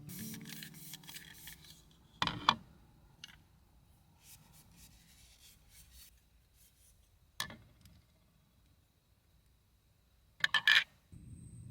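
Close handling noises: soft rubbing and rustling broken by sharp clicks. The loudest is a pair of clicks about two seconds in; a single click comes after seven seconds and a quick cluster near the end.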